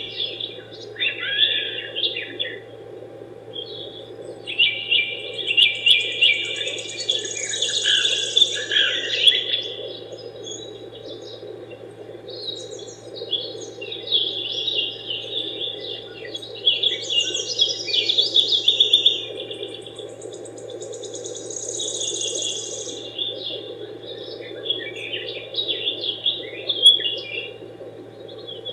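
Small birds chirping and trilling in repeated bouts, over a steady low background hiss.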